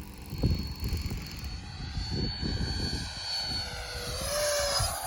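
Electric ducted fan of a Freewing F-22 Raptor RC jet whining in flight, with a steady high pitch that rises briefly about four seconds in as the jet passes. Gusts of wind buffet the microphone underneath.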